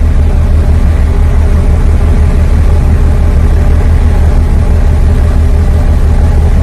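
Loud, steady low mechanical drone with a fast throb at the bottom, which starts abruptly and runs unchanged.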